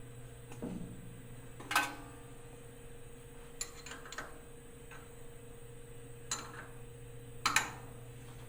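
Several sharp metallic clinks and knocks of steel tools and parts as a 3-jaw chuck is bolted onto a rotary 4th axis and a test bar clamped in. The loudest come about two seconds in and near the end, each with a brief ring. A steady electrical hum runs underneath.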